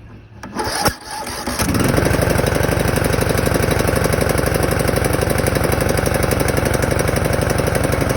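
18.5 hp Briggs & Stratton mower engine catching about two seconds in after a few clicks, then running steadily. It starts with its spark restored after a dirty ignition coil and flywheel magnet were cleaned.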